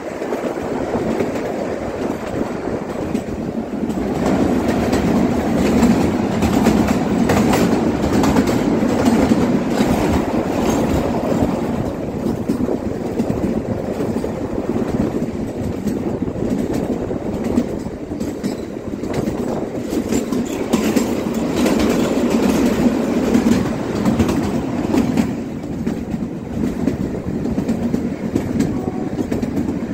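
Narrow-gauge Kalka–Shimla toy train running along the track, heard from on board: a steady rumble of the coaches, with the wheels clicking over the rail joints throughout.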